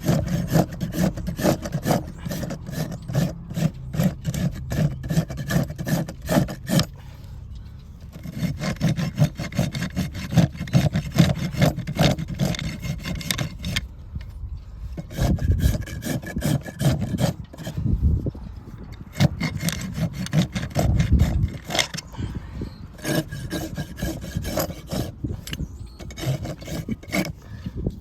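Farrier's rasp filing a horse's hoof in quick, rhythmic strokes of several a second, with a few brief pauses between runs of strokes.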